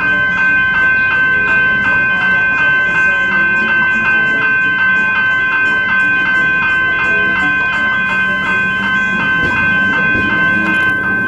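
Railway level-crossing bell ringing steadily, about three strikes a second: the warning that the crossing is closed for an approaching train.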